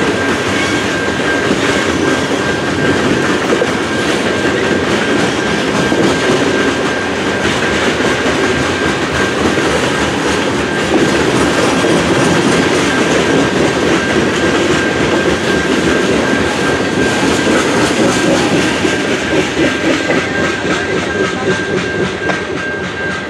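Freight cars rolling through a level crossing with a clickety-clack of wheels, while the crossing's low-tone Siemens electronic bell rings steadily throughout. The train's last cars clear the crossing near the end.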